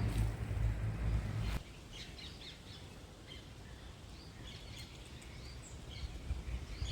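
Small birds chirping, many short high calls scattered throughout. A low rumble covers the first second and a half, then cuts off.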